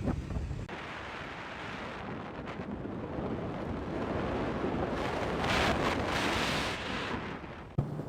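Wind buffeting the microphone while riding a motorcycle: a rushing noise that swells loudest past the middle and cuts off abruptly near the end, when a low engine hum comes back.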